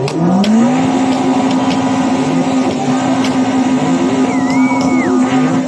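Car engine revved up quickly and then held at steady high revs, with other engines revving and falling around it. A short high whistle-like tone sounds about four seconds in.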